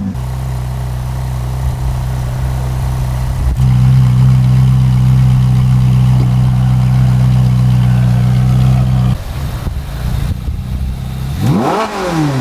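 Ferrari 458 Italia's 4.5-litre flat-plane V8 with an aftermarket F1-style exhaust idling at a steady pitch. It gets louder about three and a half seconds in and drops back after about nine seconds. Near the end there is a brief sweep up and down in pitch.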